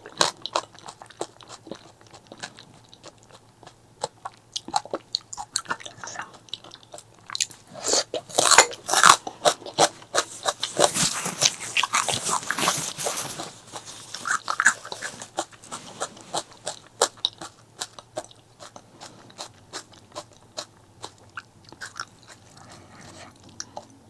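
Close-miked ASMR eating: crunchy bites and wet chewing, in a rapid run of sharp crunches. There is a louder, denser stretch in the middle.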